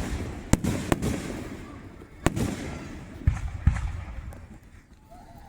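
Aerial fireworks bursting overhead: about six sharp booms, three in quick succession in the first second and three more spaced out after, each followed by a low rolling rumble that fades.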